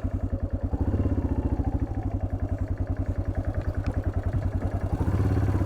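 1987 Yamaha XT600Z Ténéré's single-cylinder four-stroke engine running at low revs with an even thump, rising briefly under throttle about a second in and again near the end.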